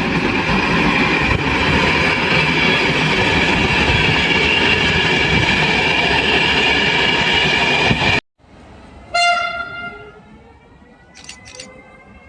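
Train passing close by: loud rumbling wheel noise with a steady high-pitched tone held over it, cut off abruptly about eight seconds in. About a second later comes a short train horn blast, then faint, slowly rising whines.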